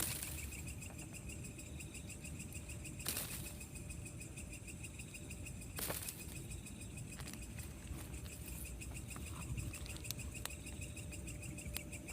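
Night chorus of crickets and other insects: a steady, high, pulsing trill. Short rustling noises come about three and six seconds in.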